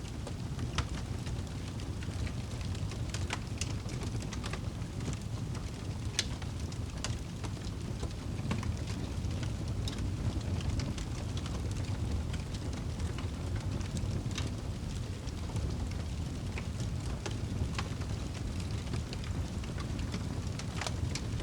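Wood fire burning in a fireplace: a steady low rumble of flame with irregular sharp crackles and pops, a few each second.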